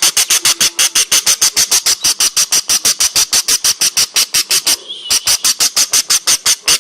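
Budgie calling in a rapid, even run of sharp squeaks, about seven a second, with a short break about five seconds in.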